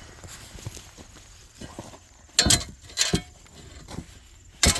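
Three sharp crunches on gravel: one about halfway in, another half a second later, and a third near the end.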